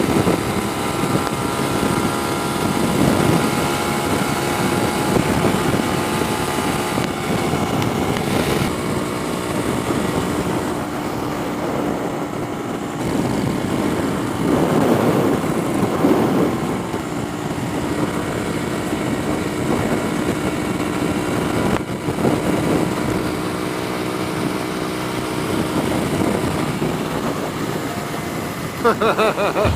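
Honda Grom's small single-cylinder engine running at steady cruising speed, with wind rushing over the rider's microphone.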